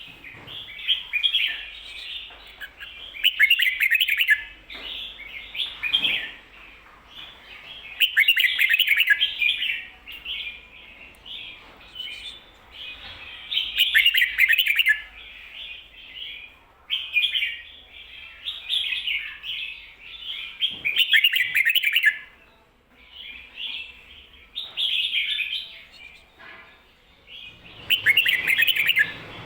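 Red-whiskered bulbul singing its 'ko-ta-ra' song with the doubled ending: short, bubbly warbled phrases, one every second or two with brief pauses.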